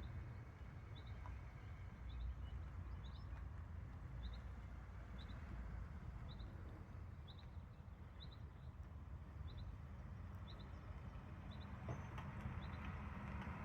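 Outdoor ambience: a steady low rumble with a high, short double chirp repeating about once a second, typical of a small bird calling.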